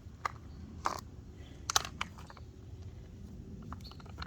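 A few short, sharp clicks and taps of small parts being handled at the engine's oil fill, as the oil funnel comes out and the oil cap is readied to go back on.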